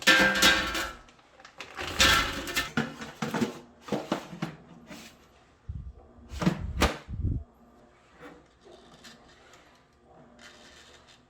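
Household objects being handled: rustling and clatter with scattered knocks, and a couple of heavier thuds about six to seven seconds in.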